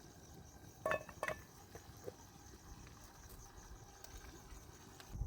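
Crickets chirping in a steady high trill, with a few light knocks about a second in.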